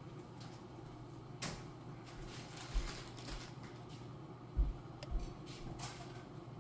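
Kitchen handling sounds at a stove: scattered light clicks and taps, a brief rustle, and a few dull thumps, the loudest about halfway through, over a steady low hum.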